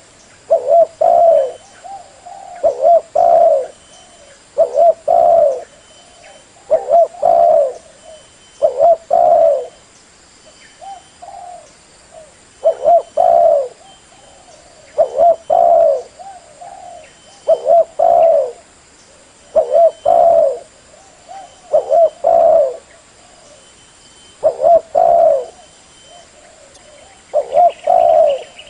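Spotted dove (tekukur) cooing: a short phrase of a few low coos, repeated about every two seconds, with a brief lull partway through. It is the call used as a lure (pikat) to attract wild doves.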